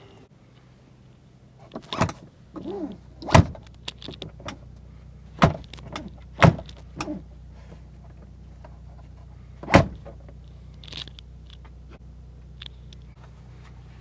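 A steady low vehicle engine hum with about five sharp knocks and clunks, like doors and fittings being handled, and a short squeak near the start.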